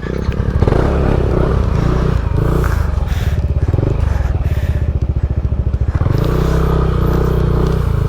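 Motorcycle engine running at low speed with a steady, rapid pulsing, building up as it pulls away about half a second in, with some clatter.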